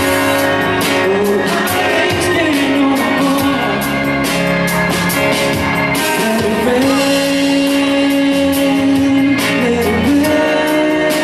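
A man singing a pop ballad live over instrumental backing, holding long notes that slide between pitches.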